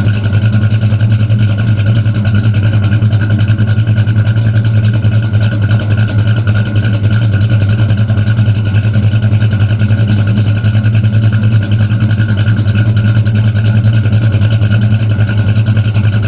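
Dodge Dart's 360 cubic-inch LA V8, fitted with a Whiplash performance cam and aftermarket mufflers, idling steadily through the exhaust. It is loud, with an even pitch that never rises into a rev and a fast, regular pulse in its loudness.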